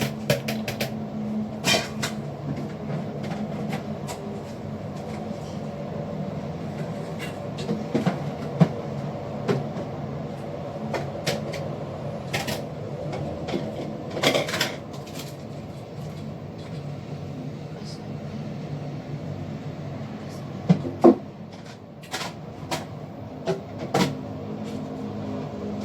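Scattered knocks, clicks and clatters of household things being handled and put away, like cupboard doors and objects set down, over a steady low hum.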